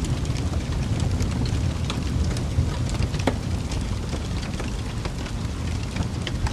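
Wood fire burning with a steady low rumble and scattered sharp crackles and pops, one louder pop a little past the halfway point.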